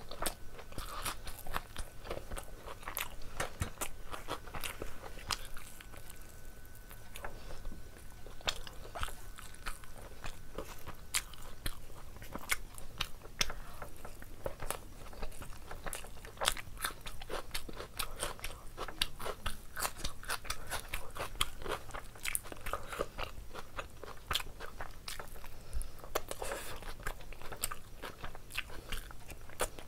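Close-miked eating of rice and chicken curry by hand: steady chewing and biting with many short, irregular mouth clicks and smacks.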